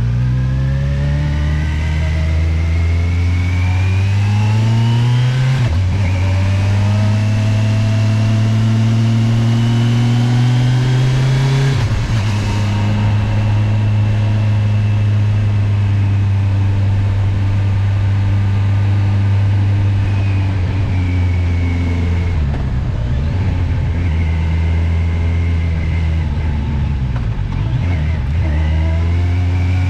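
Kawasaki motorcycle engine under way, climbing in pitch as it accelerates, with sharp drops at gear changes about six and twelve seconds in. It then runs steadily, eases off around twenty-two seconds, and rises again near the end.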